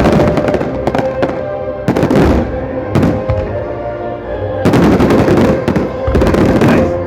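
Aerial fireworks bursting in quick succession: a string of loud bangs, each trailing off in a rumbling echo, with music playing under them.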